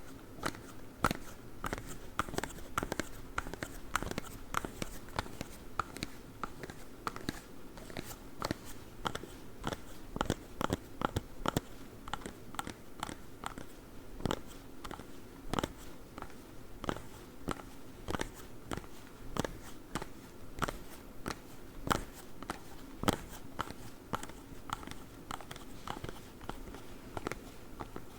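Claw gloves tapping and clicking: quick, irregular sharp clicks, a few a second.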